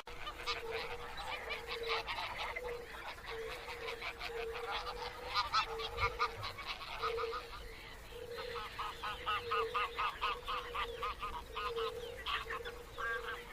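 Water birds at a colony calling in quick honking series that come and go, with a low note repeating a little more than once a second underneath.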